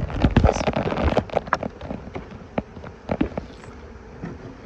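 Honeybees buzzing around an open hive, with a quick run of knocks and clatter from hive equipment being handled, thickest in the first couple of seconds.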